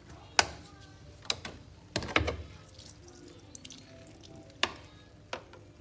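A series of sharp clicks and taps, about six, irregularly spaced, the loudest near the start and around two seconds in, as from a small object being handled and set down.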